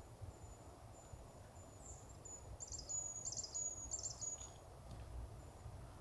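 A small bird singing: a thin, very high, steady note with three short trilled phrases in the middle, over faint low background noise.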